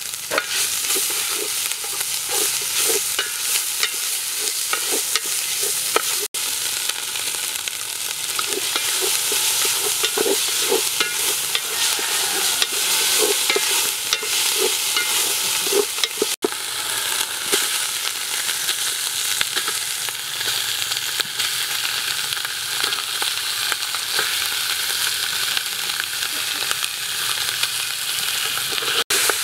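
Spice paste sizzling in hot oil in an aluminium pot, with a wooden spatula scraping and stirring against the bottom of the pot in repeated strokes.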